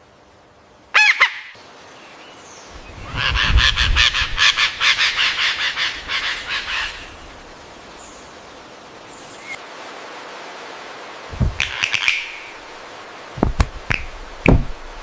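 Bird calls: a short call about a second in, then a fast run of harsh repeated notes, about four a second, lasting some four seconds, and a few more short squawks near the end.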